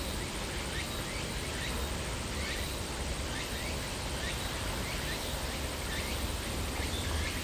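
A bird chirping repeatedly, short rising notes about once or twice a second, over a steady low rumble.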